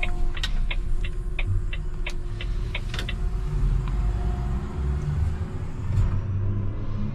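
Garbage truck engine running, heard from inside the cab as a steady low rumble. A regular ticking, about three ticks a second, runs over it and stops about three seconds in.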